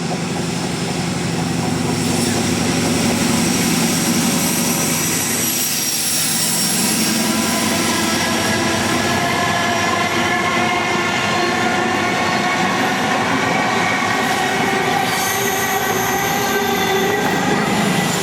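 A train running past on the line, a continuous rumble carrying steady high-pitched whining tones, with a group of mid-pitched tones that climb slowly in the second half.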